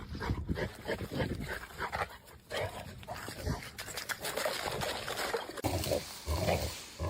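A dog vocalizing in irregular bursts, turning about two-thirds of the way in into a run of short, evenly repeated sounds.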